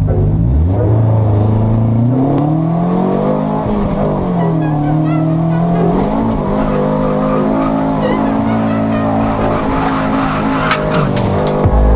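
Toyota AE86's stock 3TC four-cylinder engine breathing through sidedraft OER carburetors, revving hard up and down through a drift with the tyres skidding. Revs climb about half a second in, dip around four seconds in, rise again and hold high, then drop sharply near the end.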